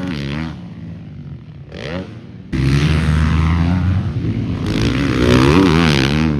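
Motocross bikes running on the track, engines revving up and down as the riders work the throttle. The engine sound drops away about half a second in, a brief rising rev comes near two seconds, and a bike cuts in loud at about two and a half seconds.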